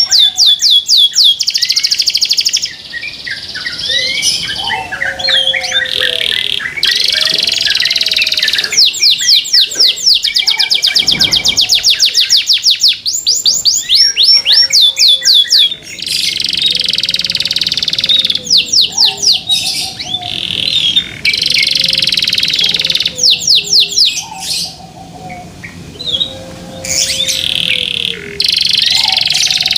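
Domestic canary singing a loud, continuous song: fast runs of repeated sweeping notes alternate with buzzy rolls. A lower slurred whistle recurs underneath every few seconds.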